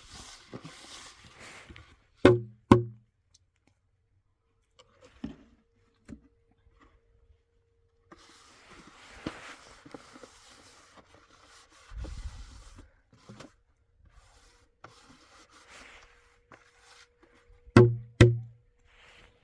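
Two pairs of loud knocks with a low, resonant ring, one pair about two seconds in and another near the end, with fainter handling and rustling noises between.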